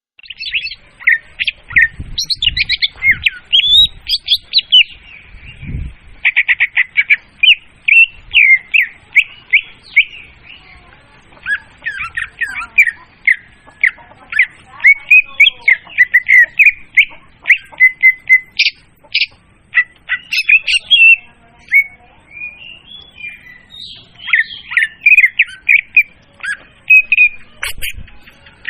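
Leafbird (murai daun) song used as a hunting lure: a loud, unbroken run of rapid, varied chirps, trills and whistles.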